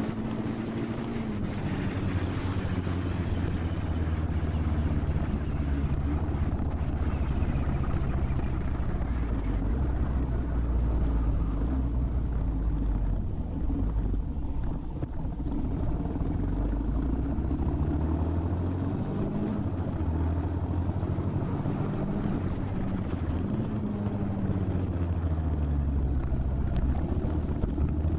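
Motorcycle engine running while riding, its pitch rising and falling several times with the throttle, over a steady rush of wind noise on the microphone.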